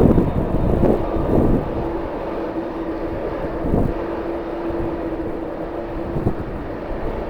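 Jet airliner's engines with a steady droning tone, heard under gusts of strong wind buffeting the microphone; the gusts are loudest at the start.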